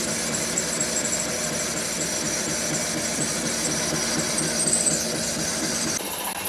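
Steady din of factory machinery running, with a faint high whine over it; the sound changes abruptly about six seconds in.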